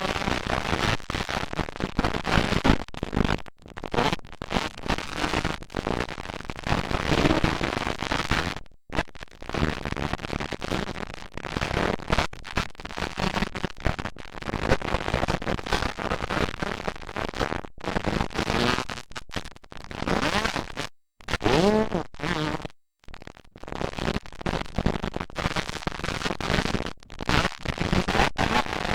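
Motocross dirt bike engines, loud and rough on a camcorder microphone, with one bike revving up and down about two-thirds of the way through. The sound drops out abruptly several times.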